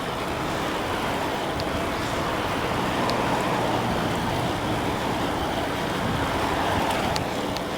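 Steady rushing wind and road noise from riding an e-bike along a road, with a gentle swell a few seconds in and again near the end.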